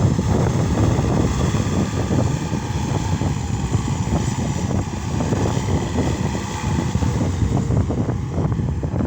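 Case SR200 skid steer loader's diesel engine running steadily, with a dense low rumble and irregular small knocks and rattles throughout.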